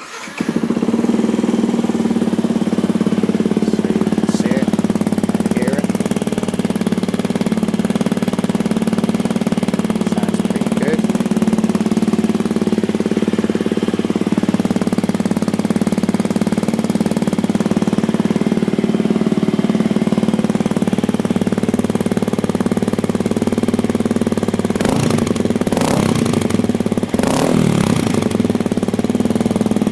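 Yamaha WR125X's 125 cc single-cylinder four-stroke engine starting and then idling steadily through a straight-through aftermarket exhaust, with a few short sharp bursts near the end.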